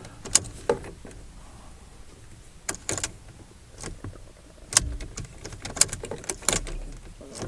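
Scattered sharp clicks and clunks with a jingle of keys, and no starter motor or engine turning over: a car's ignition key being worked while the car is dead. The cause is a loose battery earth lead.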